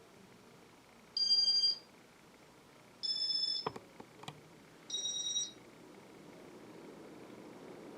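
Three short, high electronic beeps about two seconds apart from a Casablanca IntelliTouch ceiling-fan control answering commands, with a sharp click between the second and third.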